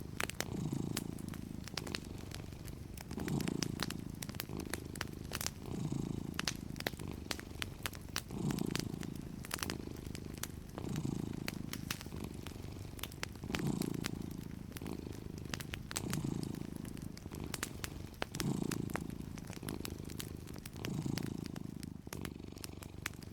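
Domestic cat purring, rising and falling about every two and a half seconds with each breath, over a wood fire's crackle of small, irregular pops.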